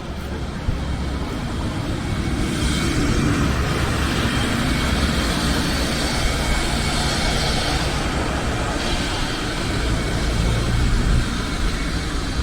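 Road traffic passing on a street: vehicle engine and tyre noise swelling about two seconds in, holding for several seconds over a steady low rumble, then easing off near the end.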